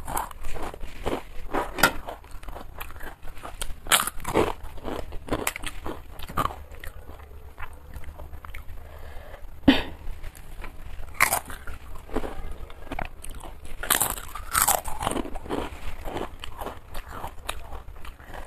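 A person biting and chewing crunchy fried food, giving irregular crisp crunches throughout.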